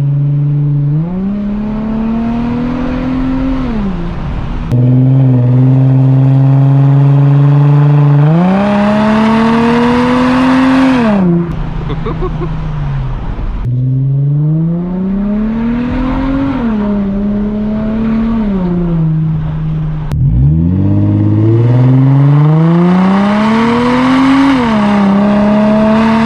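2004 Infiniti G35 coupe's 3.5-litre V6 with a muffler delete, accelerating hard four times. Each time the pitch climbs steadily, then falls away as the throttle comes off.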